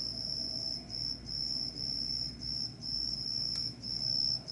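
A high-pitched, cricket-like trill that comes in runs of about half a second with short breaks between them, which the shopper could not identify.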